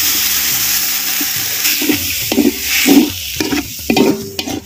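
Sliced tomatoes hitting hot oil and masala in a large aluminium pot, giving a steady sizzle. In the second half a long metal ladle scrapes and stirs against the pot a few times.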